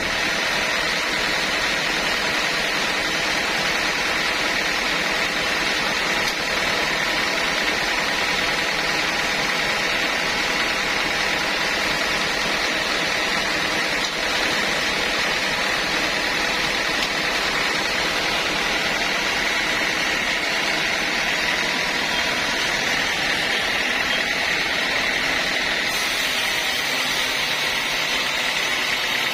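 Sawmill saw machinery running steadily, an even unbroken noise with a constant hum and no change in pitch.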